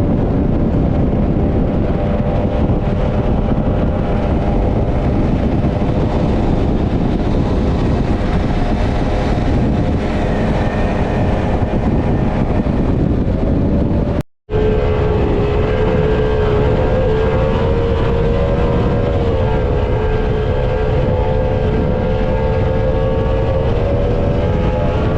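High-performance powerboat engine running steadily at speed, its drone laid over a dense rushing noise. The sound drops out briefly at a cut about halfway through, then returns with a stronger engine note that wavers slightly in pitch.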